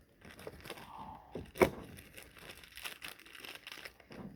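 Crinkling and rustling with small clicks and taps as the rubber-coated spacers and their packaging are handled, with one sharper click about a second and a half in.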